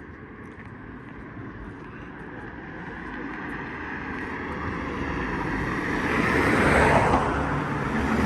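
A motor vehicle approaching along the road, its engine and tyre noise growing steadily louder until it is loudest about seven seconds in.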